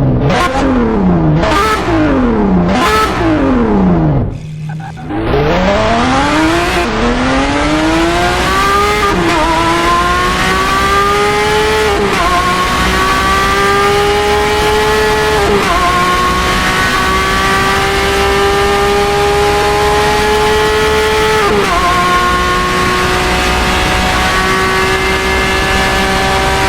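Lamborghini Aventador SVJ's 6.5-litre V12 through a Gintani aftermarket exhaust. It is blipped up and down three times, then pulled hard under acceleration, the pitch climbing through the gears with four quick upshifts.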